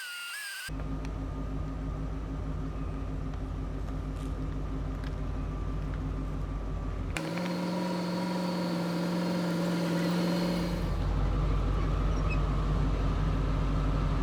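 Motor vehicle on the road: a steady engine hum with road noise. It changes abruptly twice, where different driving clips are cut together.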